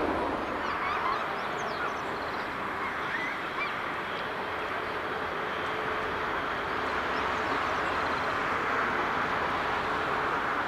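Distant jet airliner engine noise, a steady wide rush, with small birds chirping over it.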